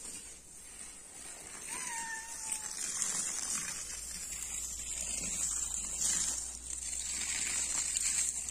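A single short animal call, slightly falling in pitch, about two seconds in, over a steady high hiss.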